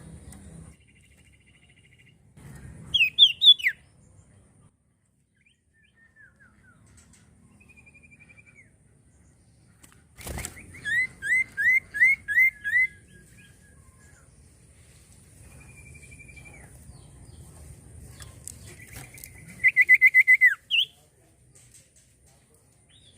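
Common iora singing in three loud bursts of quick, repeated down-slurred notes, with softer drawn-out whistles between them. A sharp click sounds just before the second burst.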